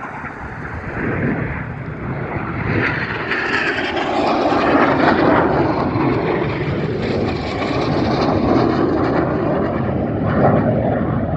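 Two BAE Hawk T1 jets of the Red Arrows passing at an airshow, one from each side: a rushing jet roar that builds about a second in, grows louder around four seconds and stays loud.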